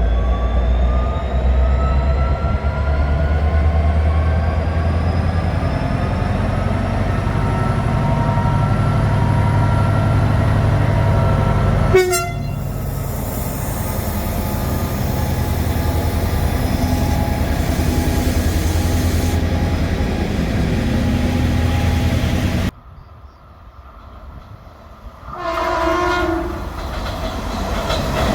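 Passing trains with a steady rumble and a slowly rising electric motor whine. After a sudden cut, a locomotive horn sounds a short blast of about a second near the end.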